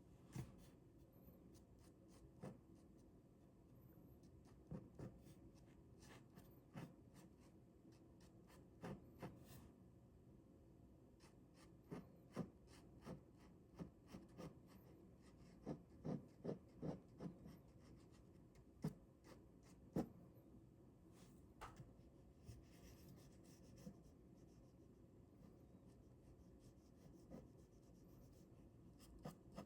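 Ballpoint pen drawing on paper, faint: irregular short scratching strokes and taps of the pen tip, with a quicker run of strokes about halfway through.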